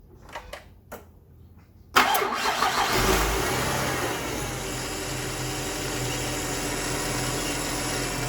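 A few faint clicks, then the Ford BF Falcon's engine is started about two seconds in: it cranks, catches and flares, then settles into a steady idle. The running engine carries a mystery noise from something driven by the serpentine belt, which the owner suspects is the idler pulley or belt tensioner bearing rather than the power steering pump or alternator.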